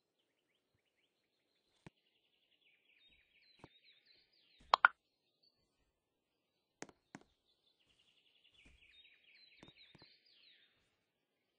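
A small bird singing a quick twittering phrase twice, with a few sharp clicks or knocks between; the loudest is a double knock about five seconds in.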